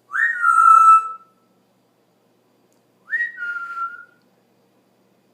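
Pet parrot whistling twice, a few seconds apart: each whistle swoops quickly up, then steps down to a lower held note.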